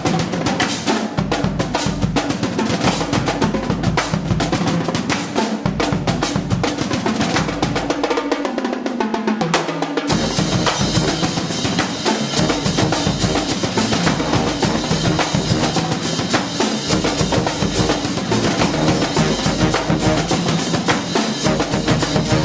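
Marching band drumline playing snare and bass drums in a rapid, driving beat, with band music. The sound turns brighter and fuller about ten seconds in.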